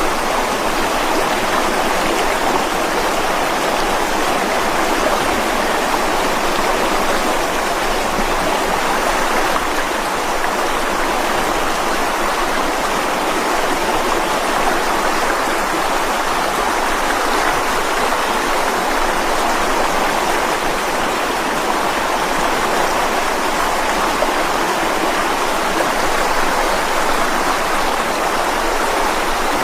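Mountain stream rushing steadily over rocks, a constant full splashing roar with no let-up.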